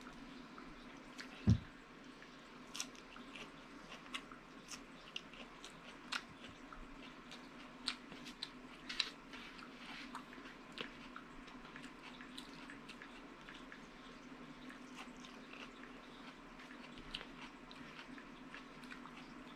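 Close-up eating sounds: soft wet chewing with scattered small lip-smacking clicks, over a steady low hum. One dull thump about a second and a half in is the loudest sound.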